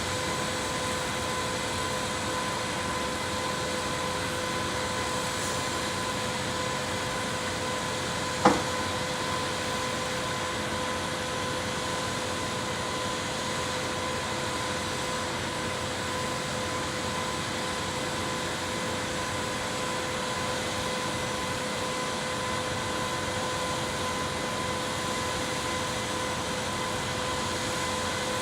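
Concrete pump truck running steadily, a constant mechanical drone with a steady hum in it, and one sharp knock about eight seconds in.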